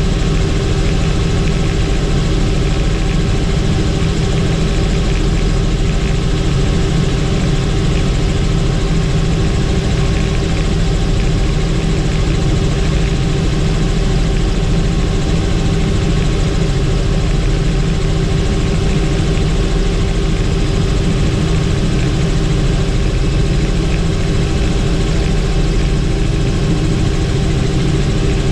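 Helicopter cabin noise in flight: steady, loud drone of the turbine engine and rotors, with a constant hum of steady tones.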